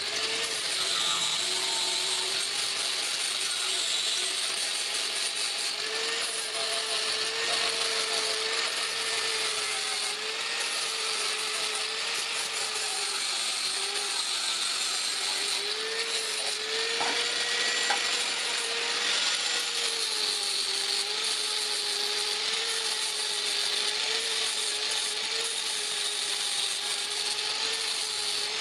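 Electric power tool running continuously, its whine wavering slightly in pitch over a steady hiss.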